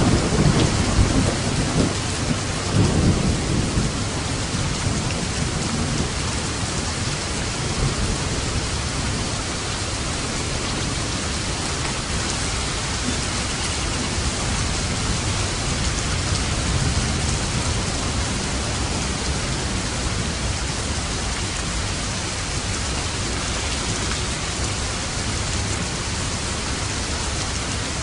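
Steady heavy rain, with a roll of thunder rumbling at the start that fades away within the first few seconds.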